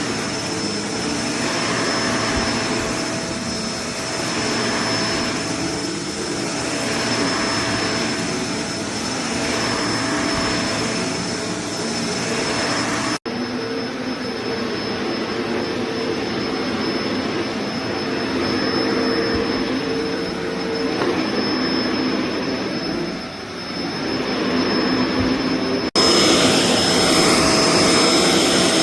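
Kenmore BU4050 bagged upright vacuum cleaner running with a steady motor whine, its sound swelling and fading about every two seconds as it is pushed back and forth. The sound breaks off abruptly and resumes slightly changed twice.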